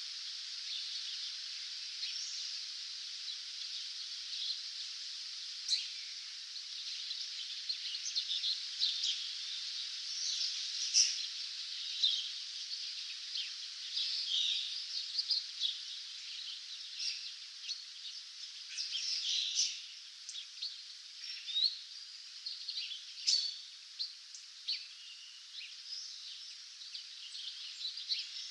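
Dawn chorus of many songbirds: a dense bed of overlapping distant song with nearer short chirps and quick phrases, which grow busier and more distinct in the second half.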